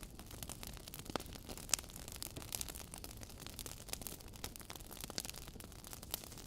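Wood fire crackling: irregular snaps and pops over a steady hiss, with one sharper pop a little under two seconds in.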